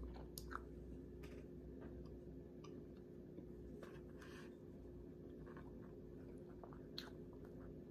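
Faint chewing of a mouthful of barbecue-sauced turkey tips, with scattered small clicks and a sharper click near the end, over a steady low hum.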